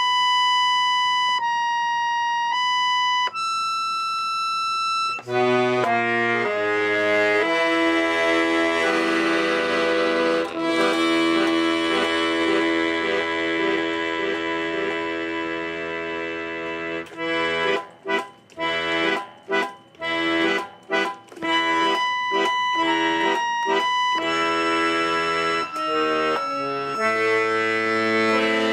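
Accordion played by an amateur improvising random notes and chords: held chords, with a run of short, broken-off chords in the middle.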